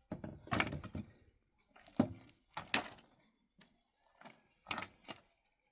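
A series of irregular knocks and thuds, about six in all, with short quiet gaps between them.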